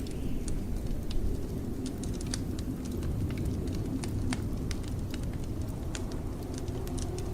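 Wood fire crackling in a fireplace, irregular sharp pops and snaps, over a steady low rumble of blizzard wind.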